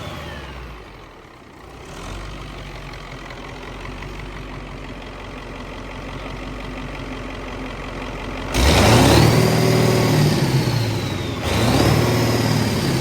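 Caterpillar 3208 turbocharged V8 diesel dropping back to a steady idle, then revved twice, once about two thirds of the way through and again near the end, with a high whistle that climbs and falls with each rev.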